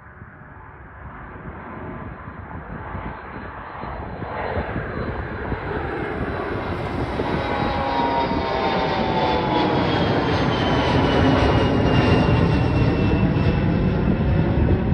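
Bombardier CRJ-200LR regional jet's twin GE CF34 turbofans at takeoff power, growing steadily louder as the jet approaches. A high whine over the roar slowly falls in pitch in the second half.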